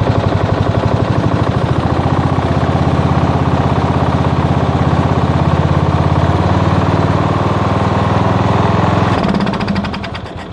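Tractor engine running steadily just above idle, with a fast, hard even pulse. About nine seconds in it drops off and the pulsing changes. The owner feels the engine is not running as it should.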